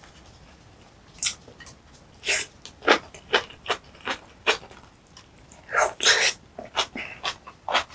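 Close-miked chewing of spicy napa cabbage kimchi: irregular wet crunches and mouth smacks, with the loudest bite about six seconds in.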